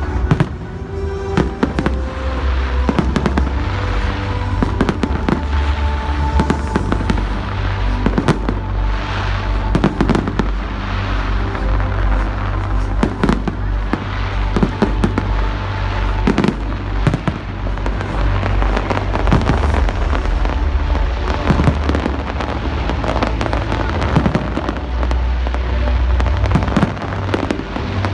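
A continuous barrage of fireworks going off, a rapid stream of bangs and crackling bursts, over loud music with a heavy bass beat.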